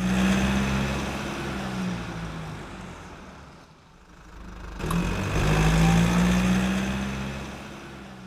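Car engine running with a steady drone that swells loud, fades away, then swells and fades a second time.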